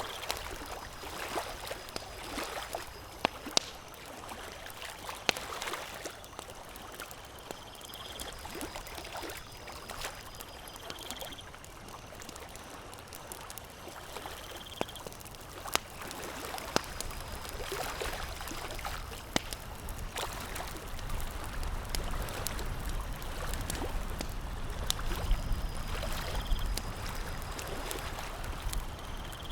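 Campfire crackling, with sharp pops every second or two over a steady watery wash.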